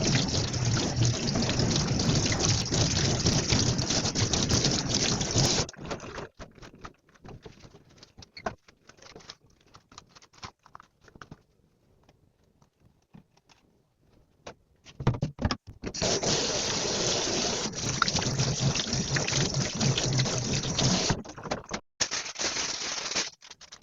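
Kitchen tap running hard into the sink for about six seconds, then shut off. Scattered light clinks and knocks follow, and the tap runs again for about five seconds from about sixteen seconds in.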